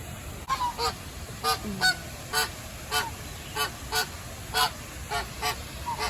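A bird honking over and over, goose-like and nasal, about two honks a second, starting about half a second in.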